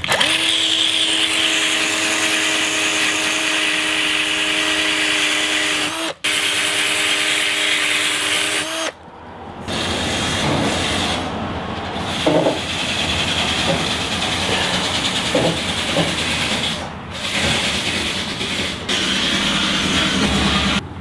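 Electric power tool running with a steady whine, cut off briefly about six seconds in and again near nine seconds, used on rusty car body panels. After that comes rougher, noisier working sound with scattered knocks.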